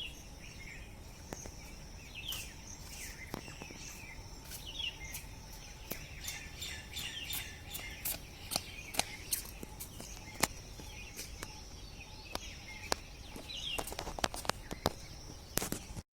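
Outdoor ambience of small birds chirping repeatedly in short calls, over a steady high insect-like drone and a low background rumble, with scattered sharp clicks throughout.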